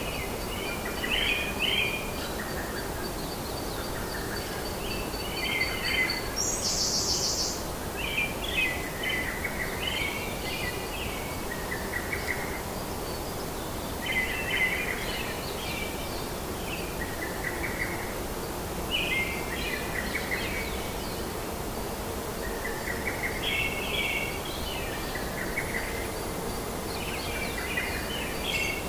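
Rainforest ambience: a steady background hiss with a bird repeating short chirping phrases every few seconds, a faint high insect-like tone, and a brief high buzz about seven seconds in.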